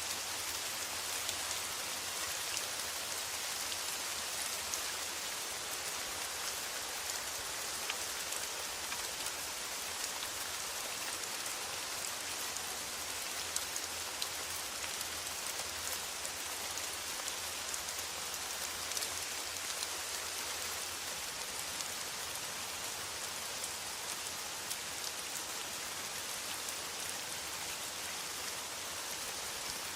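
Steady rain drumming on a metal roof, with a dense patter of individual drop ticks that keeps an even level.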